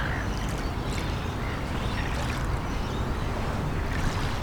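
Steady outdoor waterside ambience: a constant low rumble of wind and lapping river water, with a few faint short chirps.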